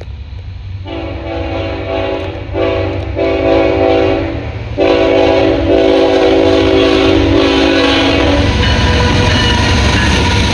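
Train horn sounding a chord in three blasts, the last one longest, over the steady rumble and rail noise of a passing train.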